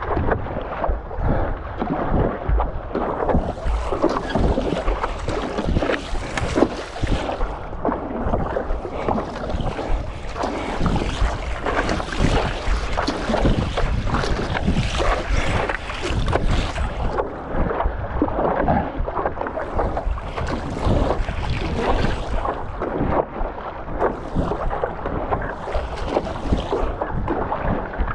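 Water splashing and sloshing around a stand-up paddleboard out on choppy sea, with wind buffeting the microphone throughout.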